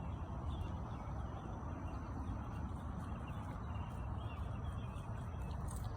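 Steady outdoor background noise with a low hum, and faint, scattered bird chirps.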